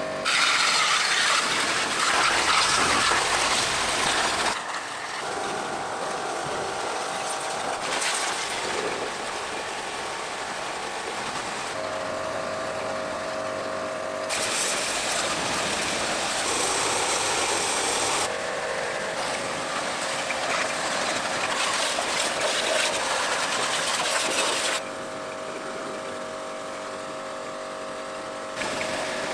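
Workshop repair noises in several stretches that change abruptly every few seconds: tool and mechanical clatter, with a steady hum in some stretches.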